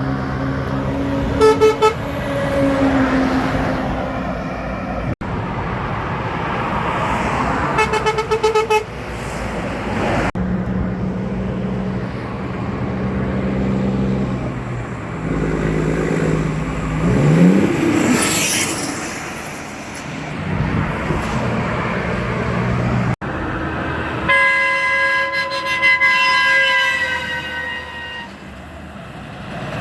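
Heavy trucks passing on a highway and sounding their air horns: a short pulsed blast about a second and a half in, another around eight seconds, and a long horn with several notes near the end. Diesel engine and tyre noise run underneath, with an engine note rising briefly midway.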